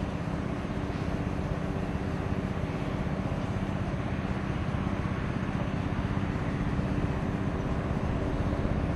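Airbus A310 jet airliner's engines running: a steady rumble with a few low tones in it, growing slightly louder.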